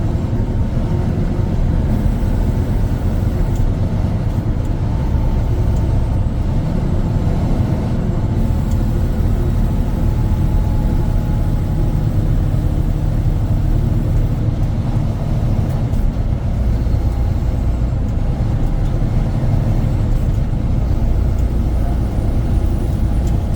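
Semi-truck driving on the highway: a steady low rumble of engine and road noise.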